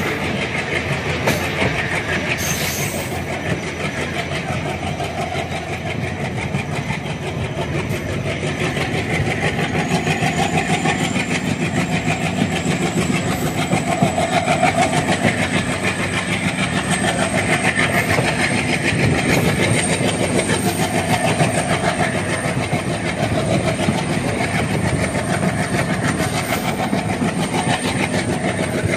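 Passenger express train hauled by an ALCO WDM-3D diesel locomotive running at speed, heard from an open coach doorway: a steady rumble with the clickety-clack of wheels over the rail joints. A faint high whine rises slowly about a third of the way through.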